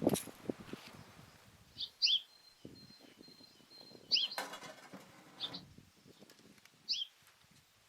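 A small bird chirping, about five short two-note calls spread a second or two apart, over scattered low knocks and a brief scrape about halfway through.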